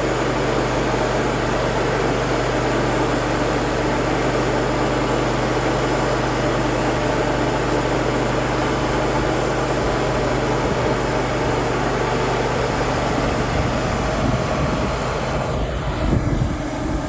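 Wood-Mizer LT35 portable band sawmill running: its 25-horsepower engine drives the band blade through a log on the first cut, a steady engine and saw noise. The sound changes near the end.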